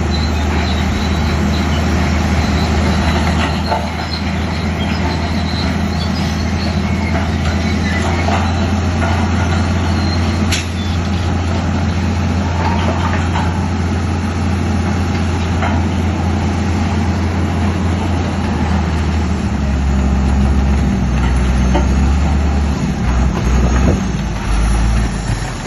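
Heavy diesel earthmoving machinery (bulldozer and dump trucks) running steadily, with a deep engine rumble and a few sharp metallic clanks. The engine note shifts about twenty seconds in.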